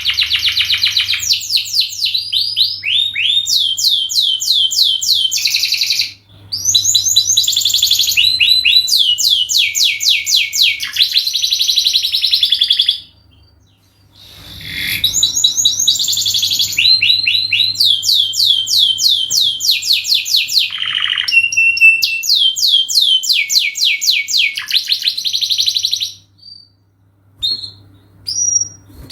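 Domestic canary singing a long song of fast trilled phrases, each a rapid run of repeated notes, with short breaks about six seconds in, around the middle, and near the end.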